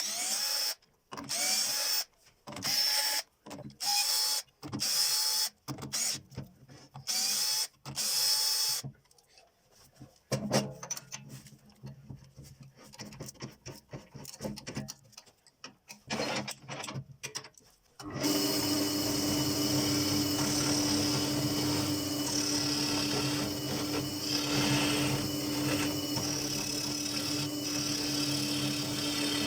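A power drill run in about nine short bursts, its motor whining up each time. This is followed by scattered light knocks of handling. About two-thirds in, a woodturning lathe starts and runs steadily with an even hum.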